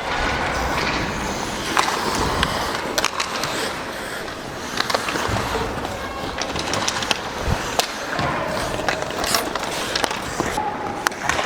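Ice hockey play: skate blades scraping and carving on the ice, with many sharp clacks of sticks and puck.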